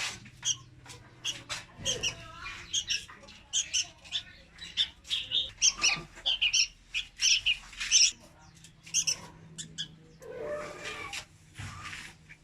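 Young red-whiskered bulbul calling: a rapid run of short, high chirps with a lower, harsher call near the end.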